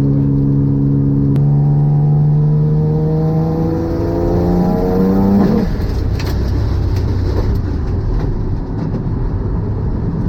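Twin-engine Mazda MX-3 accelerating hard, its engine note climbing steadily for about four seconds. About five and a half seconds in the note breaks off abruptly, leaving loud wind and road noise.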